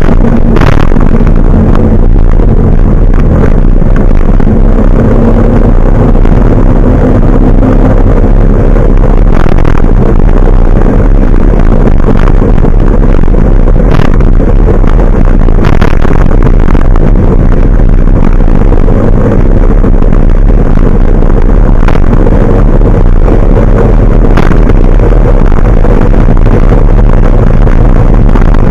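Large truck's engine running steadily under way, a loud low drone, with a few short knocks or rattles now and then.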